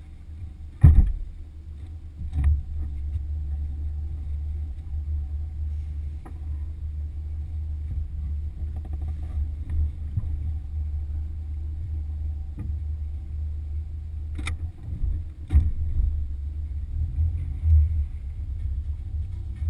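Motorboat under way: a steady low rumble with a few sharp knocks, about a second in, at about two and a half seconds, and twice near the end.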